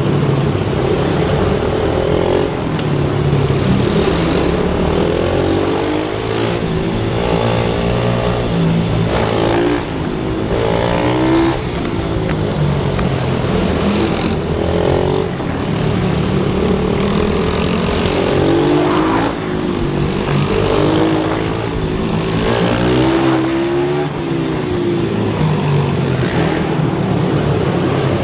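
Small single-cylinder pit bike engine running hard on track, loud and continuous, its pitch climbing through acceleration and dropping off again every few seconds as it goes round corners.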